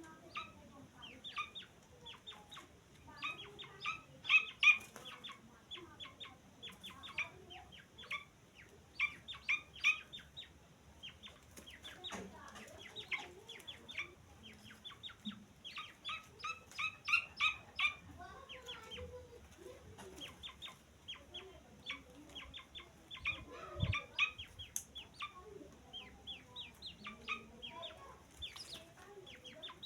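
Francolin (teetar) chicks peeping: many short, high calls in quick runs, pausing and starting again.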